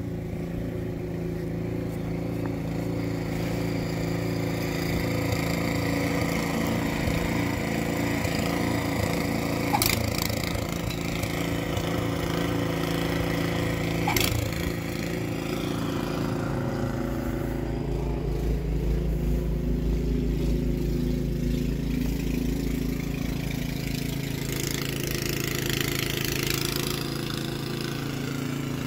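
An engine running steadily, with two sharp knocks about ten and fourteen seconds in. Its low rumble swells in the middle, and a brief hiss comes near the end.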